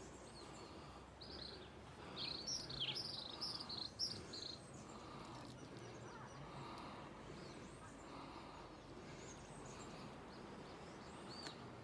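A bird chirping a quick run of short, high calls for a few seconds, over faint outdoor background noise; one more brief chirp comes near the end.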